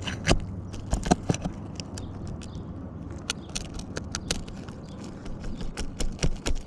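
Asphalt shingle being worked loose with a roofer's snake tool: irregular sharp clicks and short scrapes of the metal tool against the shingle and its nails, some in quick clusters.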